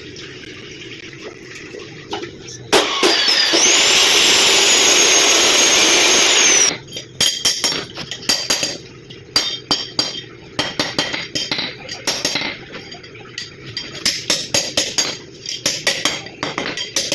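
An angle grinder spins up with a rising whine and runs on metal for about four seconds, then winds down. It is followed by a long run of irregular sharp metallic clinks and taps.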